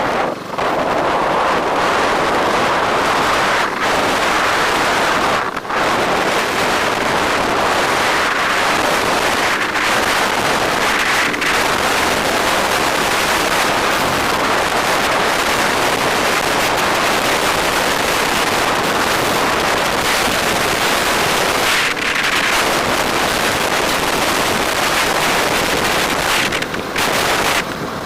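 Loud, steady wind rushing over the microphone of a moving motorbike rider's camera, with a few brief dips.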